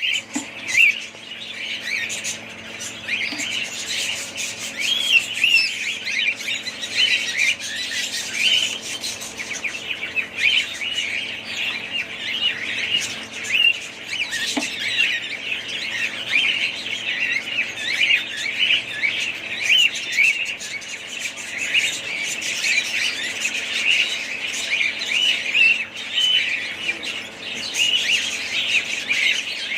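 A group of budgerigars chattering: many overlapping high chirps and warbles.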